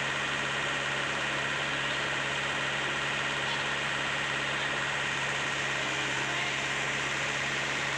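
Komatsu PC75UU compact excavator's diesel engine running at a steady speed, with no revving or load changes.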